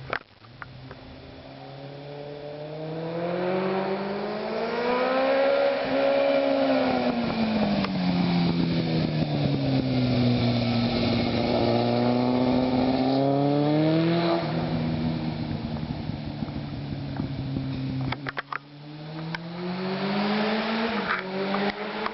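Yamaha FZS600 Fazer's 599 cc four-cylinder engine running through a Sebring aftermarket exhaust. The engine note climbs for several seconds and drops back, three times over. A few sharp clicks come near the end.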